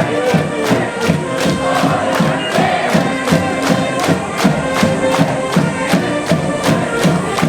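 Cheering section at a high school baseball game: a wind band playing a repeating fight-song melody over a steady drum beat of about three to four strokes a second, with the crowd in the stands joining in.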